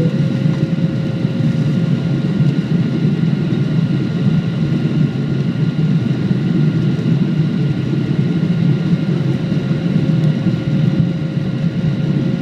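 Steady airliner cabin noise: the jet engines and airflow heard from inside the passenger cabin as a constant rumble, with faint steady whines over it.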